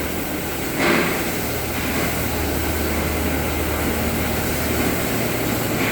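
Steady machine noise with a low hum, and a single knock about a second in.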